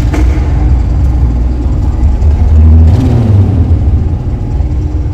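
Motorcycle on the move: engine running under heavy low wind rumble on the microphone, swelling louder a little over halfway through.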